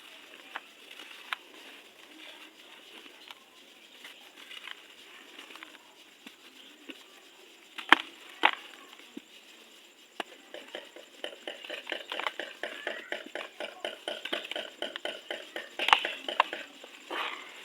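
Dry, dusty, crunchy material crumbling in a tub: scattered crunches and sharp snaps, turning into dense, continuous crackling and crunching from about ten seconds in.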